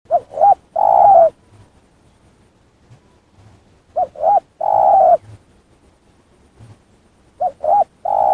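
A dove cooing: three phrases about four seconds apart, each two short coos followed by a longer coo that drops in pitch at the end.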